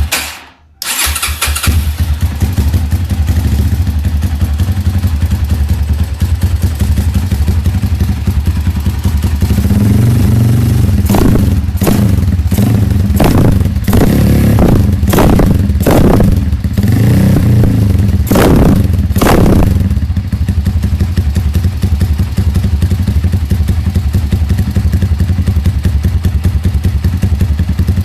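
Motorcycle running through a custom chrome free-flow exhaust silencer: it idles with a loud, throbbing exhaust note, then the throttle is blipped in a series of quick revs from about ten seconds in, each rising and falling, before it settles back to idle for the last several seconds.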